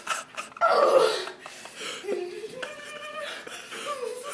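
A person laughing, with short bursts of voice in between.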